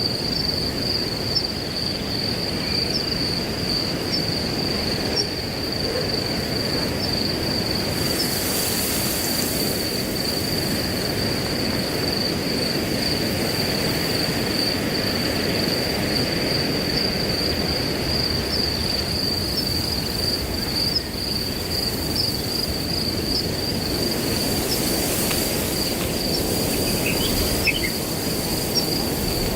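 Crickets trilling in one continuous high-pitched drone over the steady rush of wind through grass, with the hiss of the grass swelling briefly in gusts about eight seconds in and again near twenty-five seconds. A bird chirps faintly a few times near the end.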